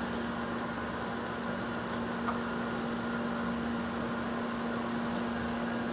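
Cincinnati universal cylindrical grinder running under power: a steady electric-motor hum with one constant tone over a wash of machine noise, and a light tick about two seconds in.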